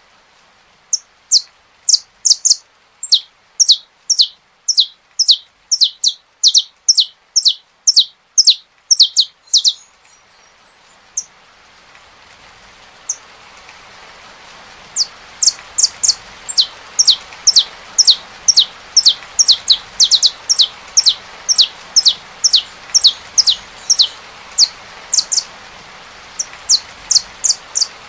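Saffron finch singing a long series of sharp, repeated falling notes, about two to three a second, with a pause of several seconds about ten seconds in. During the pause a steady rain sound fades in and runs on under the song.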